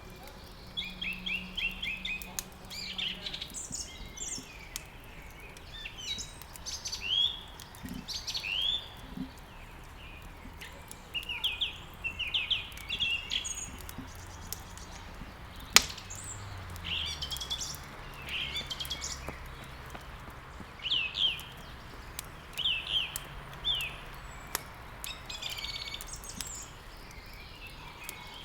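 Songbirds chirping and singing in short quick phrases throughout, over a steady hiss, with light crackling and one sharp snap about halfway through.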